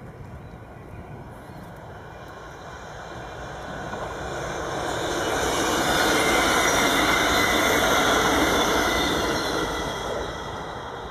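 NS double-deck electric passenger train passing on the track, its noise swelling to a peak about six seconds in and fading as it draws away near the end.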